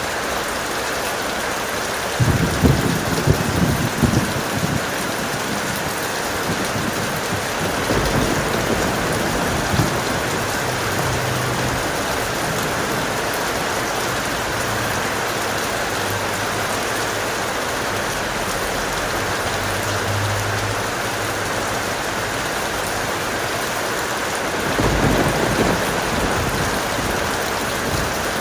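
Heavy steady rain, with thunder rumbling over it: a loud rumble about two seconds in that lasts a few seconds, a lighter one a few seconds later, and another rumble near the end.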